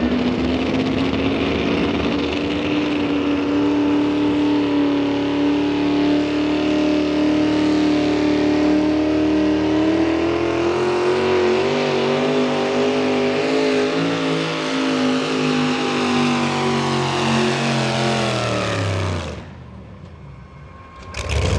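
Modified 4x4 pulling truck's engine running at full throttle under load, its pitch rising a little midway. Near the end it slides down in pitch and drops away sharply about nineteen seconds in.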